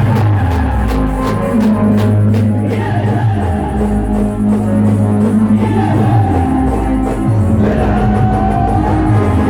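Loud amplified live band music in the Gujarati timli style, with deep bass notes that slide from pitch to pitch under a sustained melody.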